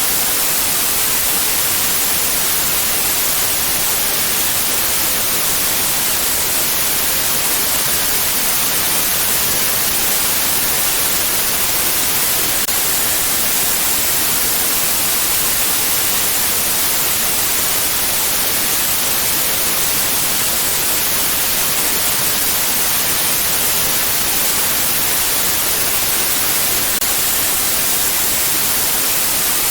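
Steady, unbroken white noise: an even hiss, brightest in the high treble, with no change in level.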